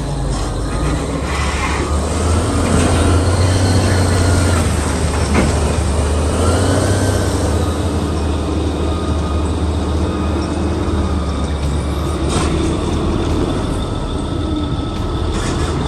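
Heavy diesel engine of a large wheel loader running steadily with a deep rumble. Two sharp knocks, about five and twelve seconds in.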